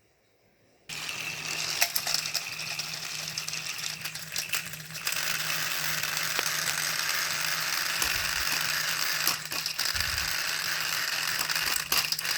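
Battery-powered toy train engines switch on about a second in and run, their small motors and plastic gears whirring steadily with scattered clicks; the whirring grows louder about five seconds in.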